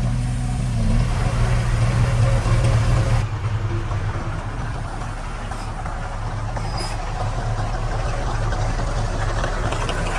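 Heavy diesel engine of construction machinery running steadily with a deep, even hum. About three seconds in the sound changes and drops a little in level, then carries on steadily.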